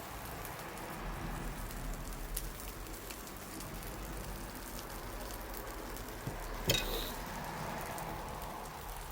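Campfire burning with a steady hiss and scattered crackles, and one sharp pop about two-thirds of the way through.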